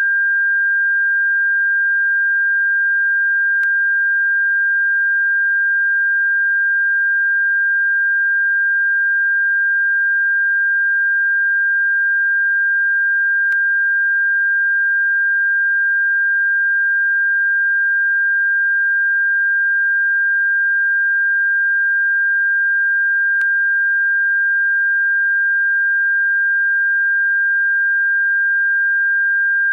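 A steady, unwavering high-pitched pure electronic tone, played as a bird-repellent frequency. Faint clicks come about every ten seconds.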